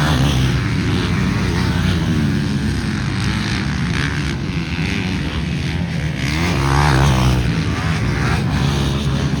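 Motocross bikes racing on the track, engines revving up and down as riders shift and throttle, with one bike swelling loudest about seven seconds in.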